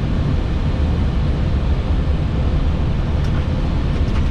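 Steady airflow and engine rumble on an Airbus A320-family flight deck on final approach, heavy in the low end with a faint steady hum above it. A couple of faint clicks come near the end.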